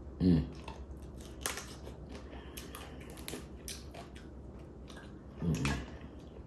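Whole crabs being cracked and picked apart by hand and eaten: a scattered run of sharp cracks and snaps of shell, with chewing. Twice a short hummed voice sound, just after the start and about five and a half seconds in.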